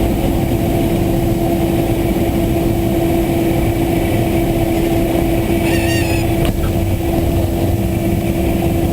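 Cessna 172SP's four-cylinder Lycoming engine and propeller droning steadily in the cabin during the landing. A brief warbling high tone sounds about six seconds in.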